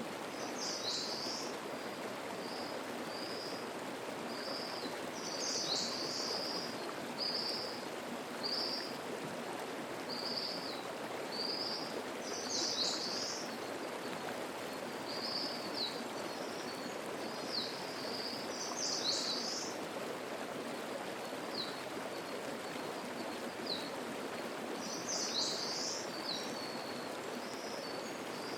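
Mountain stream flowing steadily, with a songbird singing high phrases over it: a fuller burst of song about every six to seven seconds and short chirps in between.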